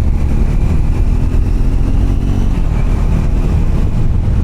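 Triumph Scrambler's parallel-twin motorcycle engine running steadily while riding.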